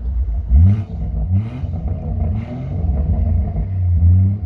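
Tuned BMW M140i's B58 turbocharged straight-six through a Quicksilver aftermarket exhaust, revving with the pitch rising in several short sweeps, with brief crackles from the exhaust between them, heard from inside the car.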